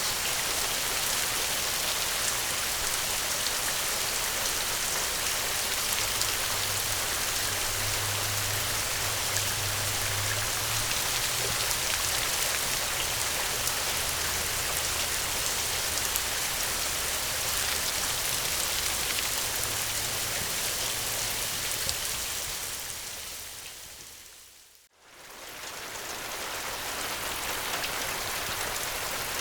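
Steady heavy rain, with a low rumble underneath through the middle that is typical of distant thunder. About 23 seconds in, the whole sound fades out to near silence and then fades back in.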